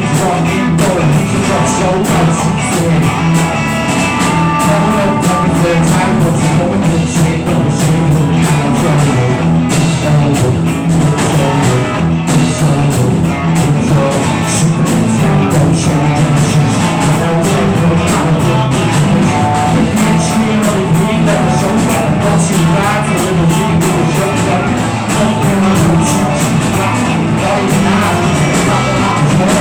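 Rock band playing an instrumental passage, with drums keeping a steady beat under guitar and bass.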